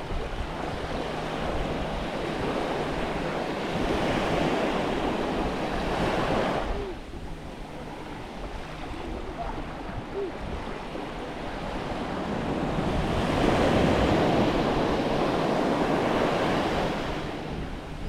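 Small waves breaking and washing up the beach in two long swells, one in the first third and a louder one in the last third, with some wind on the microphone.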